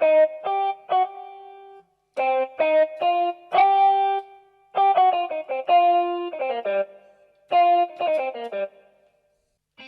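Casio AiX keyboard playing a guitar tone: three short phrases of picked notes and two-note chords, each note cut off cleanly, with brief pauses between the phrases.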